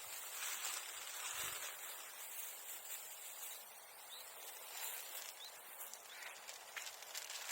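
Outdoor ambience: a steady high hiss with faint rustling and a few light ticks and small chirps.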